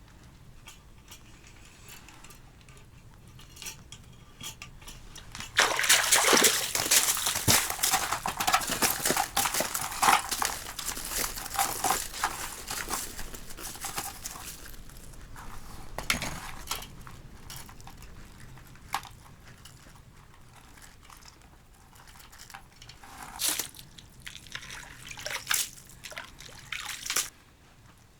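Water sloshing and splashing in an ice-fishing hole, with many small crackles and clicks. It is loudest for about ten seconds starting some six seconds in, followed by a few short splashes near the end.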